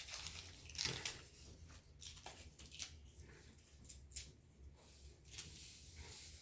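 Dry leaves crackling and tearing as they are pulled apart by hand, a papery sound in scattered short crackles that thin out after the first couple of seconds.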